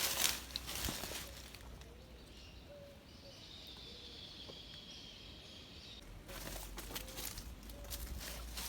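Outdoor background with faint bird calls in the quieter middle stretch, and rustling, shuffling noise at the start and again from about two-thirds of the way in.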